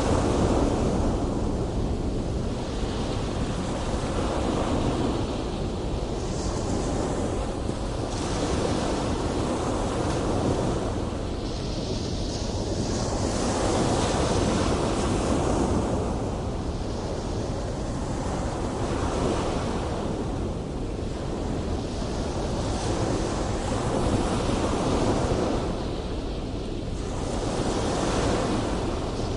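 Ocean waves breaking and washing in, the surf swelling and easing every few seconds over a steady low rumble, with wind buffeting the microphone.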